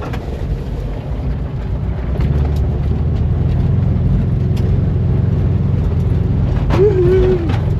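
A 1958 Volkswagen bus's engine pulling under load on a steep dirt trail, rising in level about two seconds in as it is given more throttle.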